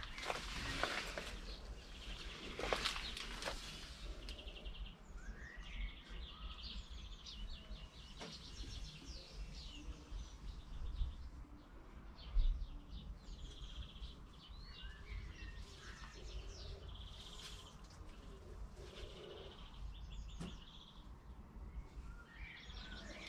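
Small birds chirping and singing in short repeated phrases, over a steady low rumble, with a few rustles in the first few seconds.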